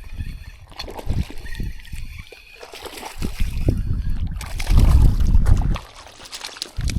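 Water splashing and sloshing, with irregular knocks and a heavy low rumble that swells about five seconds in.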